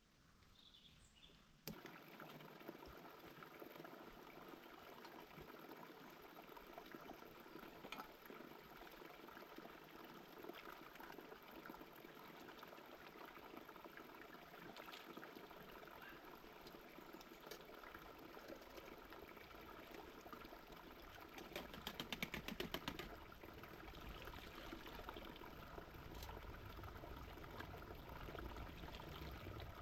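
Faint water sounds, a low trickling and splashing. A short run of rapid, evenly spaced taps comes about three-quarters of the way through.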